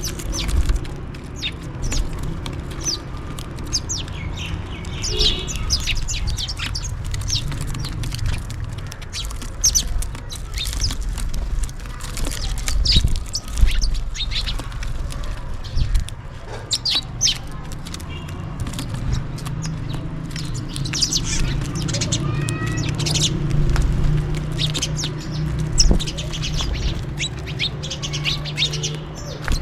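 House sparrows chirping and calling in quick, overlapping bursts, as a group does while feeding, over a steady low rumble.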